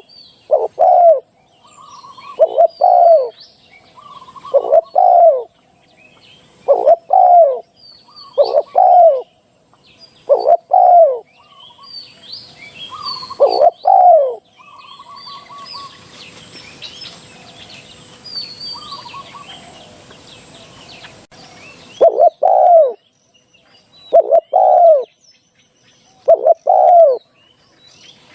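Spotted dove cooing: a low two-note phrase repeated about every two seconds, broken by a pause of several seconds in the middle, where a faint hiss and the high chirps of small birds are heard.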